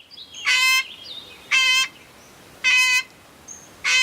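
An animal calling four times, short high calls about a second apart, with faint small-bird chirps between them.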